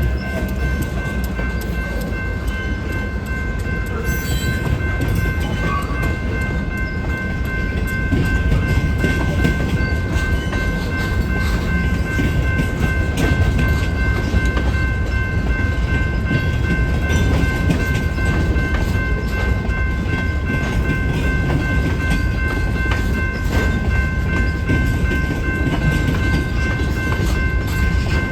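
A train running, a steady low rumble with wheel clatter that grows a little louder about eight seconds in. Several faint steady high tones sound throughout.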